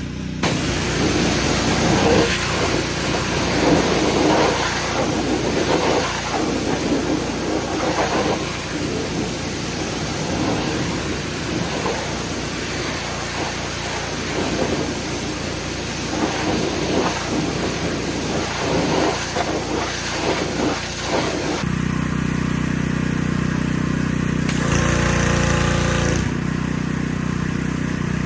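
An engine running steadily, with a hiss over it that stops about three-quarters of the way through. After that only the engine's low, even hum is left, briefly louder a few seconds later.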